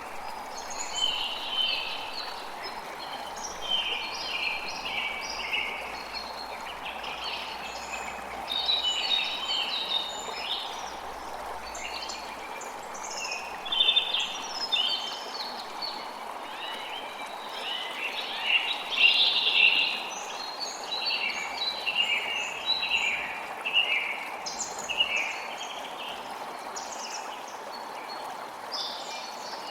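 A creek flowing with a steady rush of water, and many songbirds chirping and singing over it in quick, overlapping calls.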